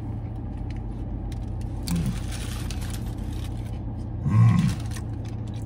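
A man biting into and chewing a cheeseburger, with small wet mouth clicks, then a loud short hummed "mmm" with his mouth full about four and a half seconds in, over a steady low hum in the car cabin.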